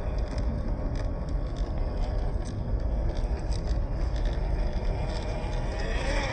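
Small RC crawler truck's electric motor and gearbox whining steadily as it crawls, with scattered small clicks and scrapes and a heavy low rumble underneath. Near the end the whine rises and falls briefly with the throttle.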